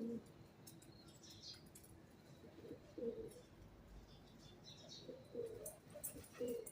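Pigeons cooing: several short, low coos a second or two apart, with a few faint high chirps from smaller birds in between.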